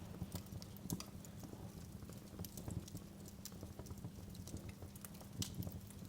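Wood fire crackling in a fireplace: irregular sharp pops and snaps, a few of them louder, over a low steady rumble of the flames.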